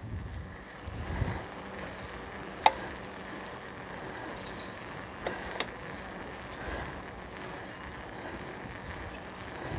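Steady wind and rolling noise during a bicycle ride, with a few sharp clicks (the loudest about three seconds in) and faint bird chirps about halfway through.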